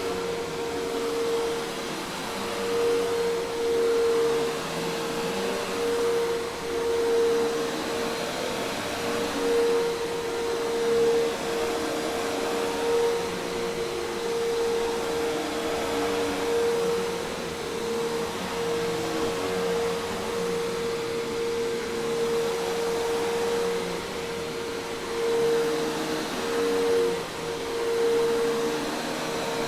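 Hoover Task Vac commercial vacuum cleaner running steadily: an even rushing of air with a steady motor whine on top, swelling and easing slightly every few seconds.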